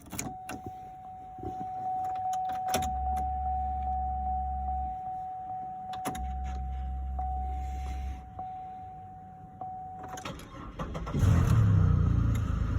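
A steady electronic warning tone sounds while the ignition key is turned on twice, each click followed by about two seconds of low hum, typical of the fuel pump priming. About eleven seconds in, the 2002 Chevrolet Impala's 3800 Series II V6 starts and settles into running a little rough, which the owner puts down to the car not having been run for a long time.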